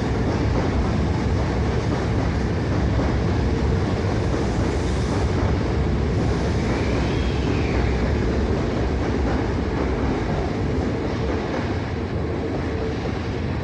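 Hankyu electric commuter train running in the station, a steady rumble of wheels and motors. A faint high squeal rises and falls about halfway through.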